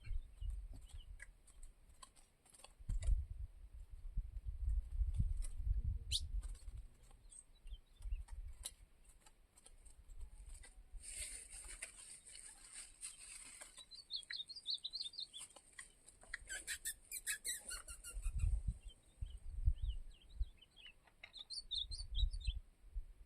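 Small birds chirping in short high notes, in clusters about two thirds of the way through and again near the end. Low rumbles on the microphone come and go throughout, and are louder than the birds.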